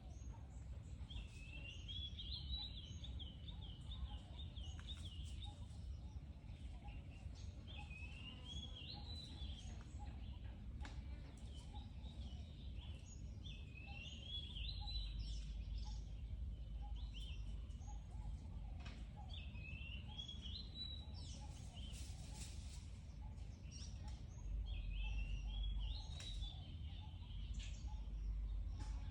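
A bird singing the same short chirping phrase about every five or six seconds, five times, over a steady low rumble.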